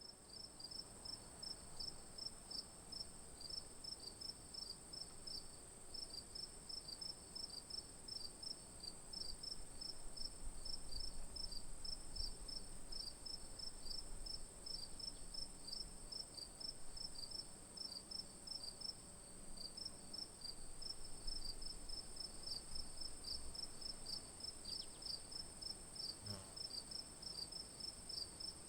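Crickets chirping after rain: an even, rapid series of short high chirps, several a second, over a continuous high-pitched insect trill.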